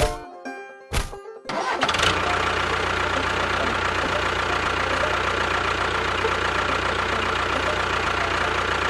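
Two sharp cracks, then from about a second and a half in a small engine starts and runs steadily with a low hum.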